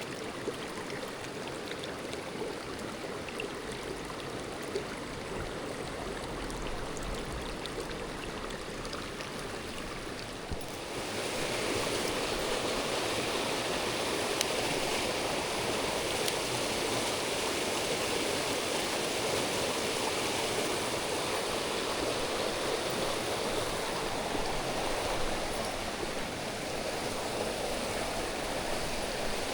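Mountain stream water rushing over rocks, a steady hiss that gets suddenly louder and brighter about a third of the way in.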